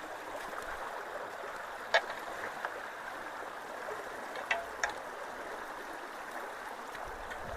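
Water running steadily through a culvert under a low-water bridge, a constant rushing, with a few sharp clicks about two seconds in and twice more a little before the five-second mark.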